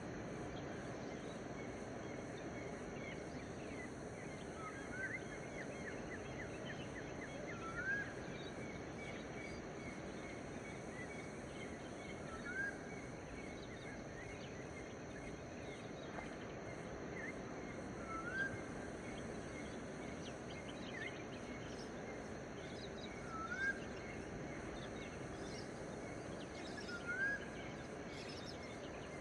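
Dawn outdoor ambience: a steady hiss with a bird repeating a short rising whistle six times, a few seconds apart, and faint chirps from other birds.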